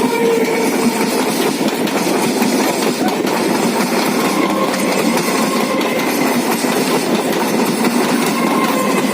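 Local passenger train running on the rails: a steady, loud rumble and rattle of wheels and carriages, with a faint whine that comes and goes.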